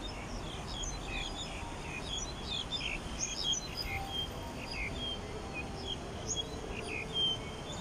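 Small birds chirping in many short, quick calls, overlapping and scattered, over a steady low hum of city background noise.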